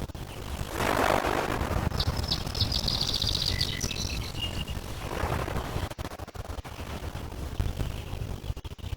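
Small lake waves washing against the shore, rising in two swells, over a steady low rumble. A bird chirps a fast twittering run for about two seconds in the middle.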